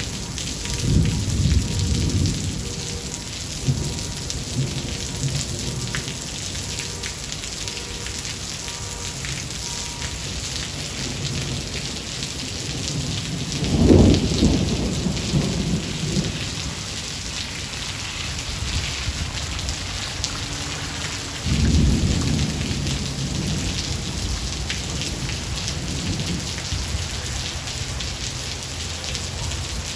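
Steady heavy rain falling, with rolling thunder. There is a rumble near the start, the loudest peal about halfway through, and another rumble about two-thirds of the way in.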